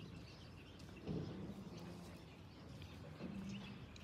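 Quiet outdoor background with faint bird chirps, and two faint low hums, one about a second in and one just after three seconds.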